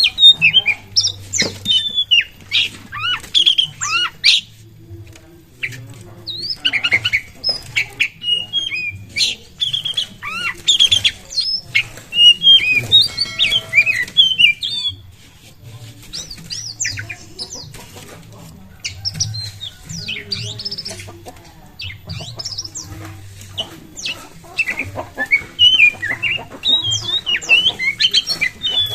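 Oriental magpie-robin singing in full song: rapid, varied whistles mixed with harsh scratchy notes, in bouts broken by short pauses.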